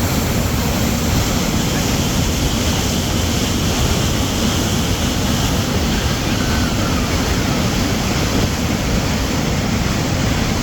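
Water from a natural spring gushing and flowing in a steady, unbroken rush.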